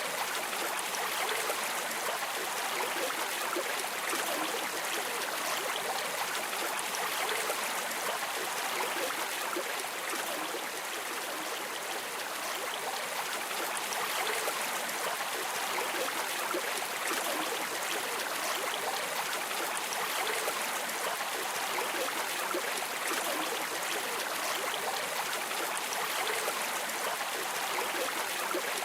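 Steady rush of flowing river or stream water, an even hiss with no breaks.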